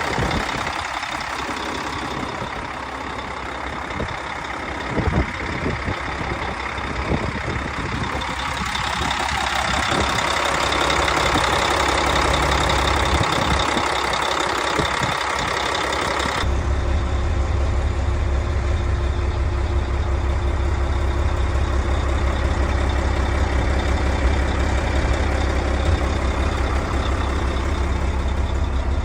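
Volvo VHD dump truck's 435 hp diesel engine idling steadily, with a few light knocks in the first half. A little past halfway the sound changes abruptly: the deep low rumble becomes much stronger and the higher sounds fainter.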